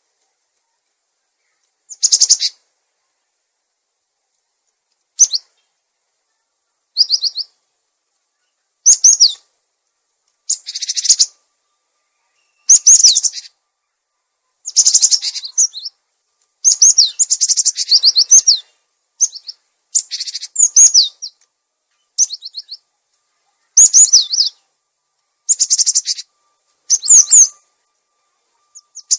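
Cinereous tit (gelatik batu) calling, played as a bird-lure recording: short bursts of quick, high, falling chirps separated by pauses. The bursts come every two to three seconds at first, then closer together, about every one and a half to two seconds.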